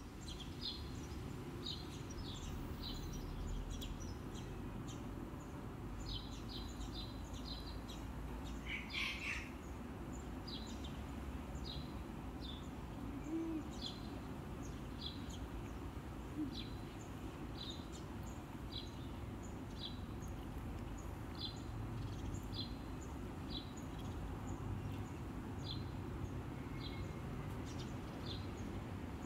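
A bird chirping over and over, short high calls about once or twice a second, over a steady low background rumble, with a brief louder rustle about nine seconds in.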